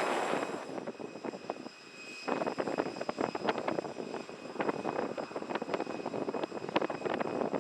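Jet airliner engines running: a loud rushing noise that fades over the first two seconds, then from a little after two seconds a rough, crackling jet noise.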